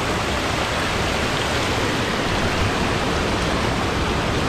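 Steady, loud rush of water from a waterfall close by.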